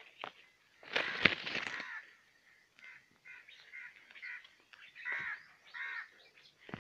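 Birds calling outdoors, a series of short repeated calls, with a louder noisy burst about a second in.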